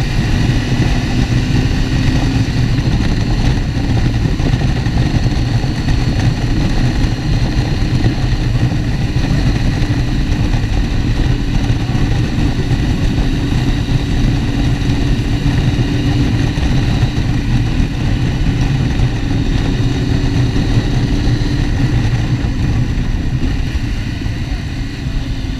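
Motorcycle engine running under way at road speed, with wind noise over the microphone; the engine note shifts a little as the rider works the throttle, and the level eases slightly near the end.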